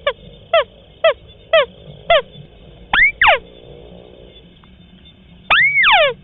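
White-browed crake calling: a run of short, sharply falling notes about two a second, then a rising-and-falling note paired with a falling one, and a longer cluster of such notes near the end.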